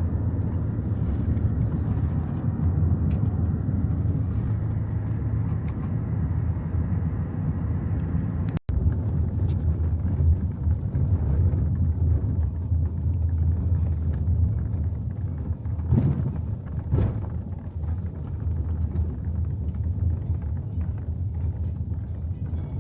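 Steady low rumble of a vehicle in motion, heard from inside, with a momentary dropout about nine seconds in.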